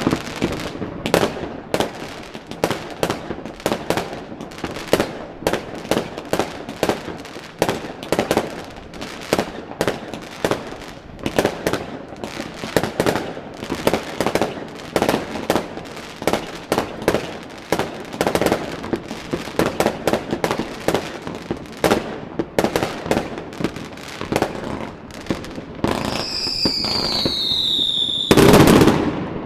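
New Year fireworks going off: a rapid, continuous barrage of bangs and crackles, several a second. Near the end a high whistle falls in pitch over about two seconds, then a very loud blast.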